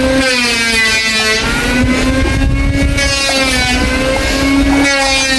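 A motor running steadily with a droning tone that wavers slightly in pitch, over a low rumble.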